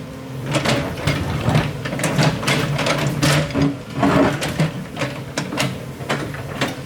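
An excavator's diesel engine running steadily, with a string of irregular knocks and clatters over it.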